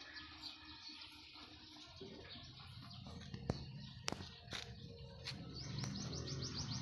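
Faint outdoor background with a few sharp clicks as hands handle a bicycle brake cable. From about two thirds of the way in, a bird chirps in a rapid run of short high notes, about ten a second.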